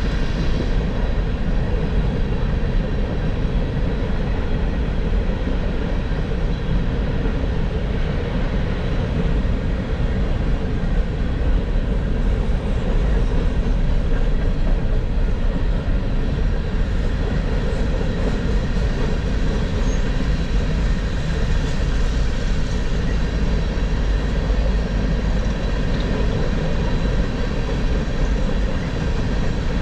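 Freight train passing: a steady, loud rumble of rolling wheels and cars that holds without a break.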